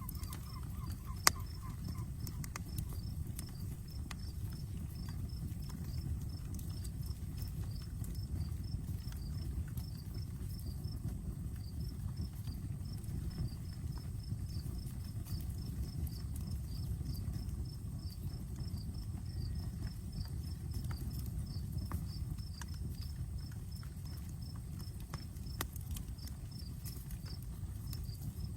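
Outdoor campfire burning with a steady low rumble and scattered sharp crackles and pops of burning wood, one pop much louder about a second in. Behind it an insect chirps in a steady, even rhythm.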